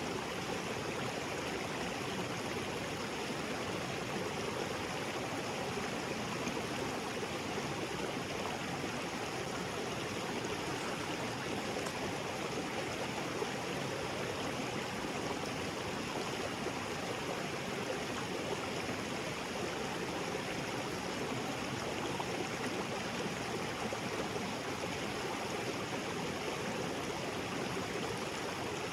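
Small waterfall spilling into a rocky creek: a steady, even rush of falling and flowing water.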